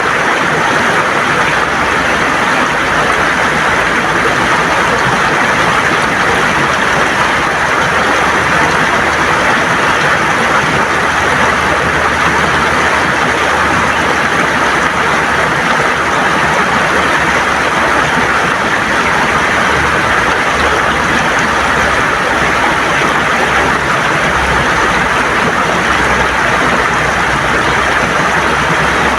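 River water gurgling and rushing steadily over smooth stones.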